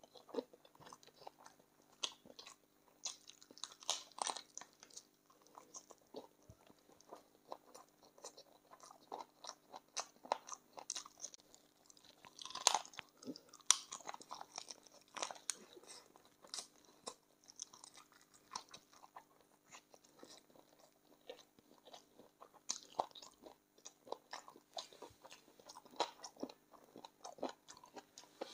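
Close-miked chewing and biting on chicken feet in gravy: irregular crunches and chewing clicks, with a louder cluster of crunches a little before the middle. A faint steady hum runs underneath.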